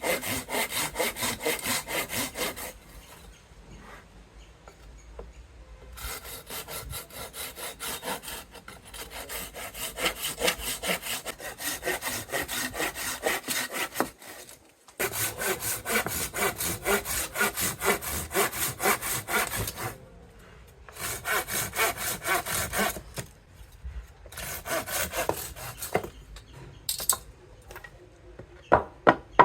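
Hand saw cutting through soft mango wood with steady back-and-forth strokes, in several runs broken by short pauses, with a few sharp knocks near the end.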